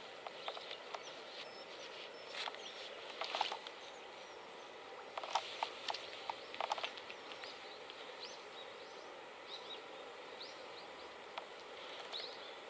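Outdoor riverside background with small birds chirping in short high notes, more often in the second half, and a few short clicks and rustles in the first half.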